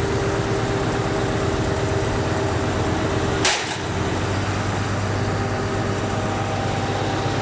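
An 8DVT-330 V8 turbodiesel engine idling steadily. There is one short sharp sound about halfway through, then a brief dip in level before the idle settles again.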